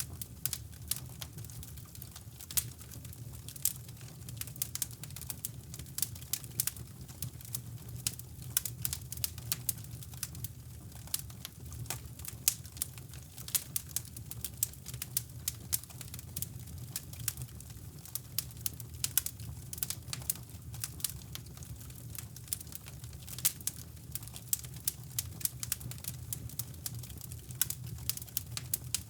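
Wood fire crackling in a fireplace, many irregular sharp pops and snaps, over a steady low rumble of brown noise.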